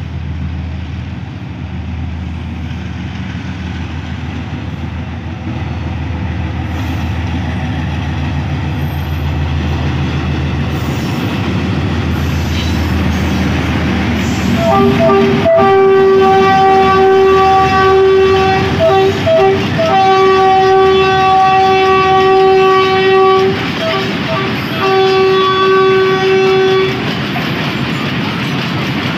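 Pakistan Railways RGE-24 diesel-electric locomotive approaching at speed under a 1000-ton load of oil tank wagons, its engine drone building. As it passes close, about halfway in, the driver plays the horn in a pattern of long blasts broken by quick clusters of short toots. Near the end the tank wagons roll by with wheels clacking over the rail joints.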